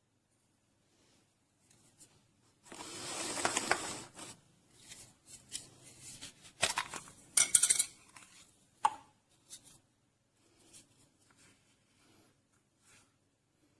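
Handling noises: a rustle lasting about a second, then a few seconds later a quick run of sharp clicks and clatters, the loudest near the middle, followed by scattered faint ticks.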